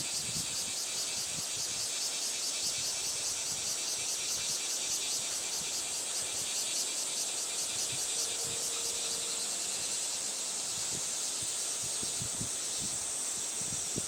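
Gusty wind left over from a typhoon, with a steady high-pitched insect chorus trilling in fast even pulses over it. A brief faint hum comes in about eight seconds in.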